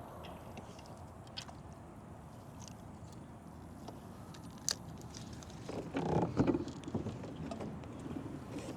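Fishing kayak on the water: steady water and wind noise with scattered small knocks, and a louder burst of handling noise about six seconds in.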